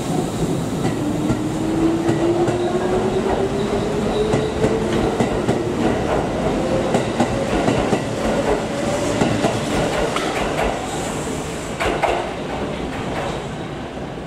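Kintetsu 12200 series 'New Snack Car' limited express pulling out of the station and gathering speed. Its motors whine in a tone that climbs in pitch over the first several seconds, over the rumble of the cars and wheels clacking on the rail joints.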